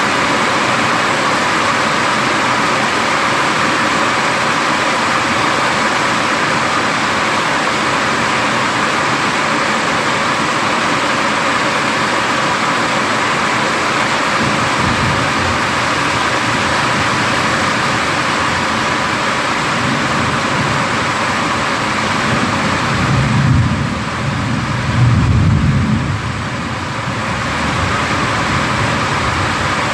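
Heavy rain falling steadily in a thunderstorm. Partway through, a low rolling thunder rumble builds, swelling loudest twice near the end.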